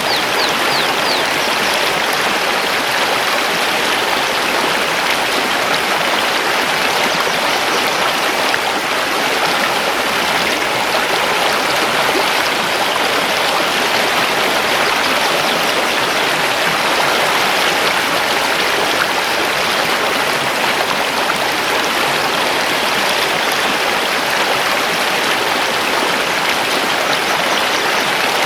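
Mountain river rushing over stones, a steady, loud, unbroken flow of water. A few faint bird chirps come through in the first second or so.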